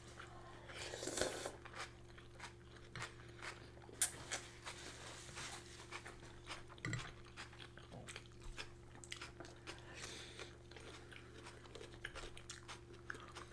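Close-miked chewing and crunching of a fresh salad of tomato, red onion and herbs, with faint scattered clicks and a sharper click about four seconds in.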